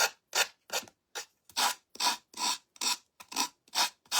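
Rhythmic back-and-forth scraping on the edge of an ironed-on paper craft surface, about two or three rasping strokes a second.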